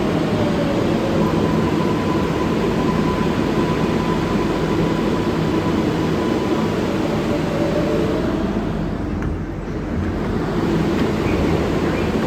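R188 subway train running in motion: steady rail and wheel noise with a faint steady whine and a sliding tone from the motors. The noise thins briefly about nine seconds in.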